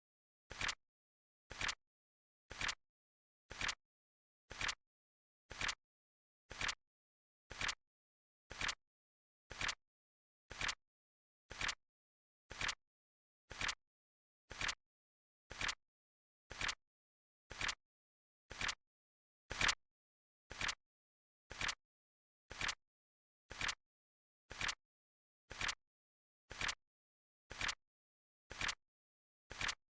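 Flip-clock timer sound effect: a crisp double click, the flap of the seconds digit turning over, repeating evenly about once a second, with one click about two-thirds of the way through a little louder than the rest.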